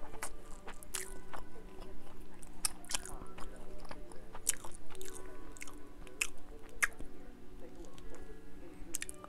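Close-miked chewing and biting, with many short wet mouth clicks, as Vienna sausage and fried rice are eaten.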